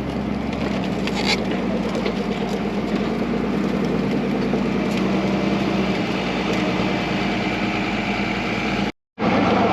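Snowcat engine running steadily as the machine backs up, with the sound cutting out abruptly for a moment about nine seconds in.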